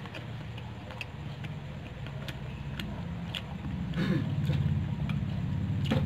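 A person chewing fried chicken close to the microphone: a low, dense chewing sound with irregular small clicks and crunches, getting louder from about four seconds in.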